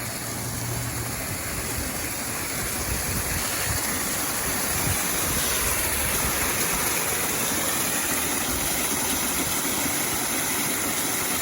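Steady rush of water falling from a small waterfall, a constant, even noise that grows a little louder over the first few seconds.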